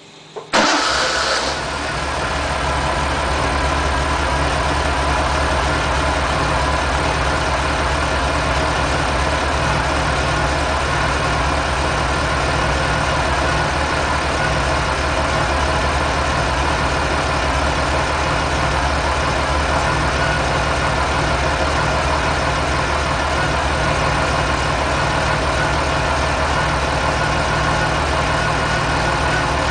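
Nissan Fairlady Z432's S20 twin-cam straight-six starting already warm: a brief crank, and it catches about half a second in, flares up, then settles within a couple of seconds into a steady idle.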